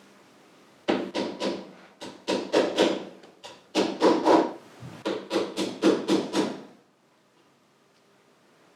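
Four runs of quick, sharp workshop taps, about four or five a second, like a hammer tapping, stopping about seven seconds in.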